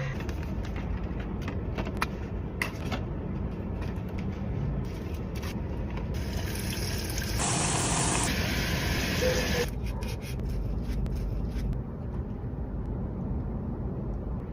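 Close-up eating sounds over a steady low rumble, with a few sharp clicks and a hissing rush lasting three to four seconds about halfway through.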